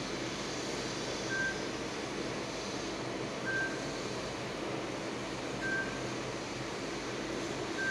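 A short high electronic beep repeating four times, about every two seconds, over a steady noisy hiss.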